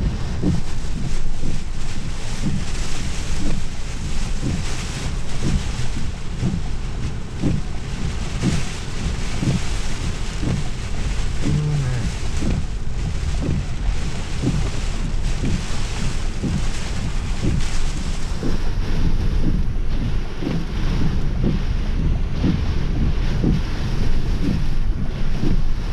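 Strong storm wind gusting and buffeting the microphone in a continuous low rumble, over a steady hiss.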